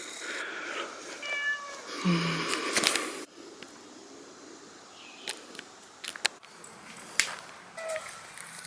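Domestic cat meowing: a short meow about a second in and a fainter one near the end, with scattered light clicks between.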